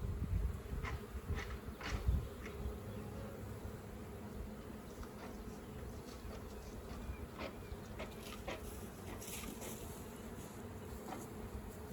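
Honeybees buzzing as a steady hum, with low rumbles and a few knocks in the first couple of seconds.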